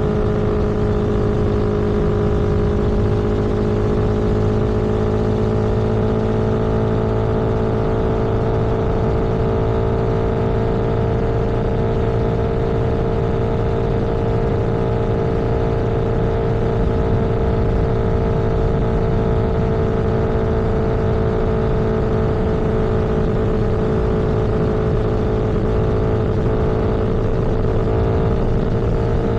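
Vehicle engine running steadily at cruising speed, its drone drifting slowly and slightly higher in pitch.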